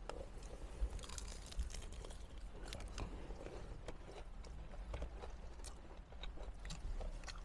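Someone eating fried chicken wings: irregular crisp crunches and chewing, over a low steady hum.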